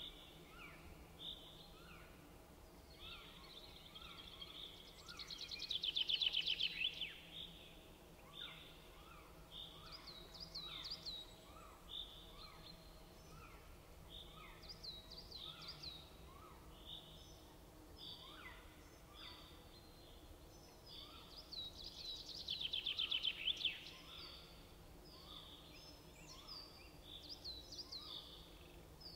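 Songbirds singing in woodland: many short chirping notes throughout, and twice a louder rapid trill, about 5 s in and again about 22 s in.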